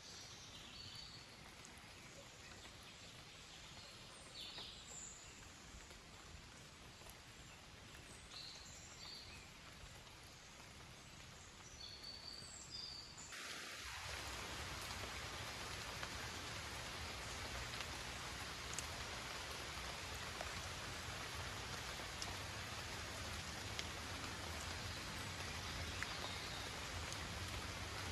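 Faint bird chirps over quiet outdoor ambience, then about halfway through a sudden switch to steady rain, an even hiss with scattered drop ticks.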